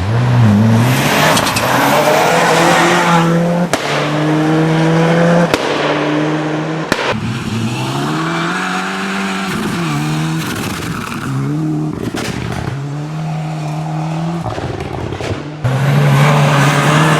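Ford Escort RS Cosworth rally cars' turbocharged four-cylinder engines revving hard at full throttle. The pitch climbs and drops repeatedly through gear changes, with several abrupt jumps between passes.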